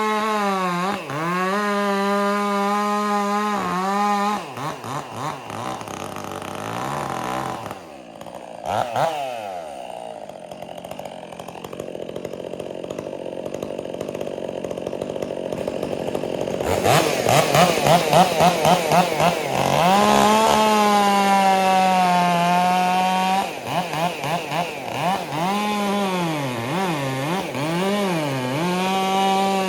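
Stihl MS 400 C two-stroke chainsaw with an Egan Straight Shot exhaust, revving at full throttle with repeated throttle blips. It drops to a low speed partway through and then cuts through wood under load. The owner feels the saw has lost some torque with this exhaust and bigger bar, though he might be wrong.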